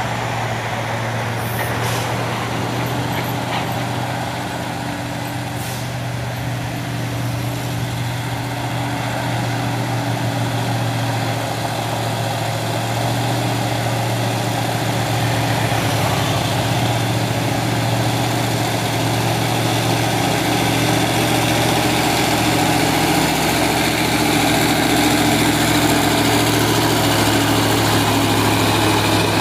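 Heavy diesel truck engine pulling steadily up a steep climb, growing gradually louder. A couple of short hisses come in the first few seconds.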